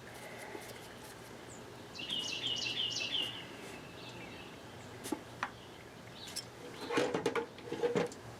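A bird gives a quick run of four high chirps about two seconds in, over a low steady hum. Near the end come a few sharp knocks and clacks.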